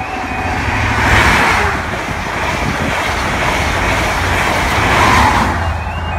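A train passing over a level crossing: steady rushing and rumbling with two swells, about a second in and near the end. The warbling two-tone crossing alarm sounds underneath.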